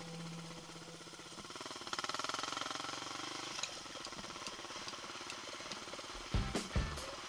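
Single-cylinder four-stroke engine of a Yamaha XT600Z Ténéré trail motorcycle running as it rides over rough grass, a fast steady pulsing that grows louder about two seconds in as the throttle opens. Music comes in near the end.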